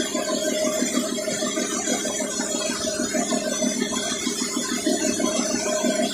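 An engine running steadily at idle, with an even, fast rattling pulse.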